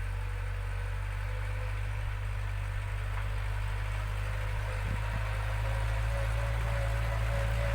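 ISEKI NT554 tractor's diesel engine running steadily at slow speed while ploughing, with a faint whine that rises a little in pitch about halfway through.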